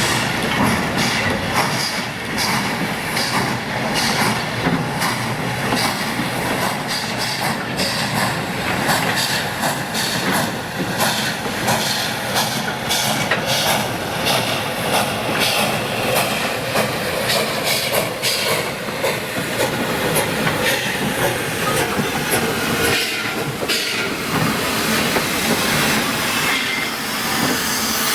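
A train rolling past, its car wheels clicking steadily over the rail joints, with some hissing.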